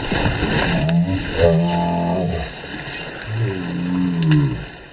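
Long, drawn-out wordless vocal cries from men, several in a row with bending pitch, over water splashing at the start as a man flounders in the creek.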